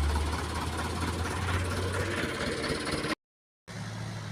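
Heavy truck diesel engine running loud and low, easing off a little, then cut off abruptly about three seconds in; after a short silence a truck engine idles steadily and more quietly.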